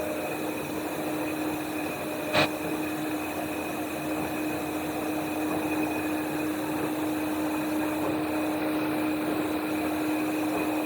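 Plastic bag film extruder running: a steady mechanical hum with one constant low tone over a broad whir. A single sharp click sounds about two and a half seconds in.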